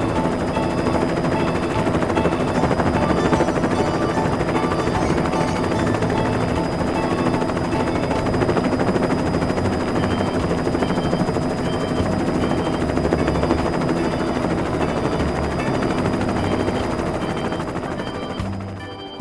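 Helicopter rotor sound effect: a steady, rapid chopping that fades out near the end.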